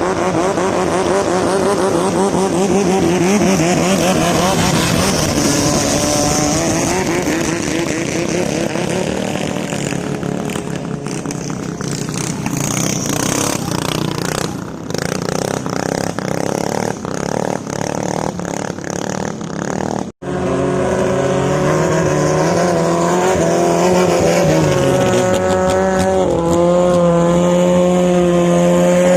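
Thai longtail boat engines running hard, with a wavering pitch in the first part. About two-thirds of the way through the sound cuts out for an instant and another engine comes in at a steadier pitch, which rises and falls near the end.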